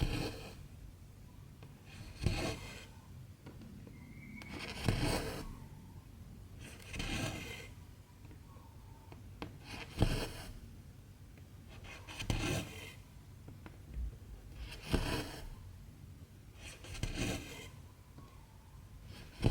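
Cotton embroidery thread being pulled through 14-count cross-stitch fabric, stitch after stitch: a short rasping rub about every two and a half seconds.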